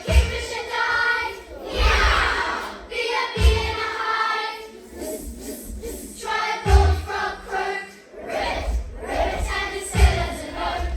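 A group of young children singing together with musical accompaniment, with a low beat landing roughly every three seconds.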